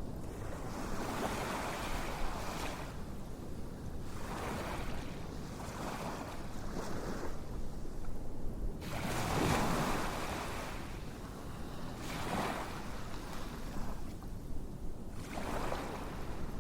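Ocean waves breaking and washing in on a shore, swelling and fading every few seconds, the largest wave about nine seconds in.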